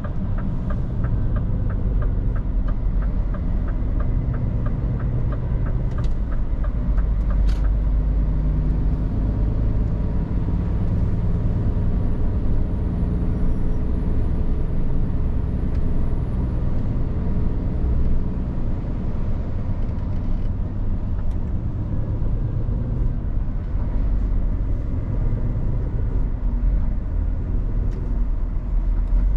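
Scania R450 truck engine and road noise heard from the cab while driving, a steady low rumble. For the first seven seconds or so, the turn indicator ticks about three times a second, then stops.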